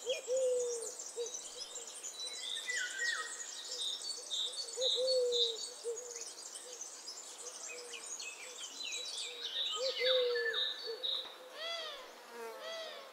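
Several birds calling at once: a low call repeated many times under high chirps and trills, with a quick series of arching calls near the end.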